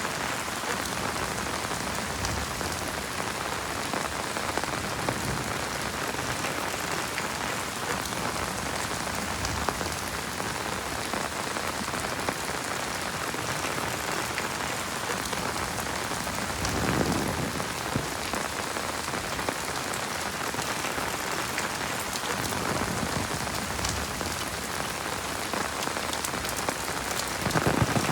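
Heavy rain falling steadily, a dense even hiss of drops. Two brief low swells rise out of it, about midway and near the end.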